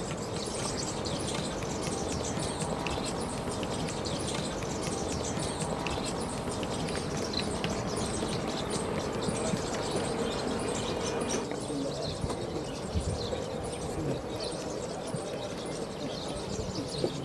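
Small birds chirping in many short, high calls over a steady outdoor background.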